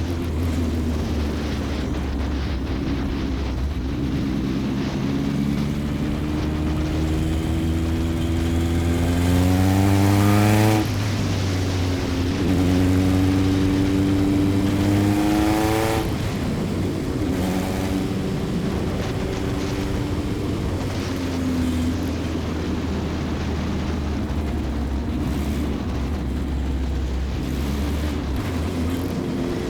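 Single-seater formula race car's engine heard on board. It climbs through the revs, drops with a gear change about eleven seconds in, and climbs again. Around sixteen seconds in it backs off and runs steadily at lower revs.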